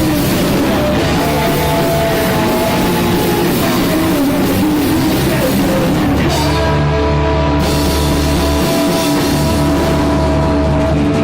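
Punk rock band playing loud, with electric guitar and drum kit. About six seconds in it settles into long held chords.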